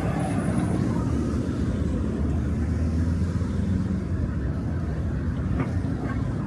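Street ambience of a city walk: a steady low rumble of road traffic, with a couple of faint clicks near the end.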